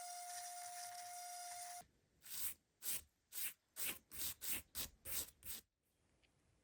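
A steady machine whir with a high hum stops suddenly about two seconds in, followed by about nine quick scrubbing strokes.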